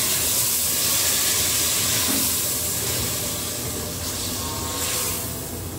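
Chicken pieces and peas sizzling in hot oil in a steel pot, the water just poured in hissing and steaming. It is a steady high hiss that eases off a little near the end.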